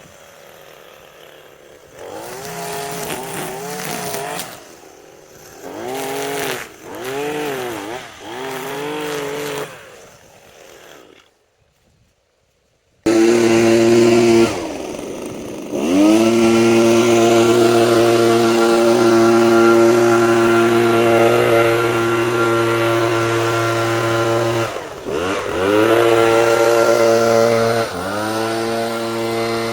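Small engine of a handheld power tool revving up and down in short bursts. After a brief cut to silence about halfway, it runs steadily at full throttle, with the throttle let off and brought back up a few times near the end.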